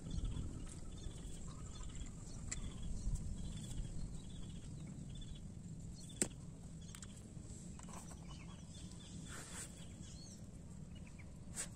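A small bird calling one short note over and over, about twice a second, dying away about five seconds in, over a steady low rumble. One sharp click about six seconds in.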